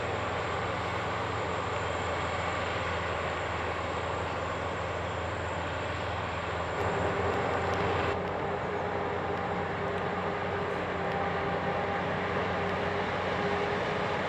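Heavy diesel machinery running steadily under load, with a steady mid-pitched whine joining in about seven seconds in.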